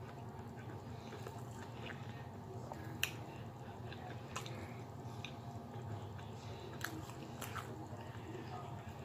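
Close-up chewing and mouth sounds of someone eating a mouthful of rice and cabbage, over a steady low hum. A few sharp clicks cut through, the loudest about three seconds in.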